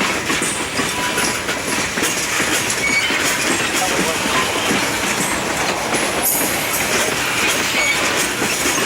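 Freight train cars rolling past, wheels clacking steadily over the rail joints, with a few brief faint wheel squeals.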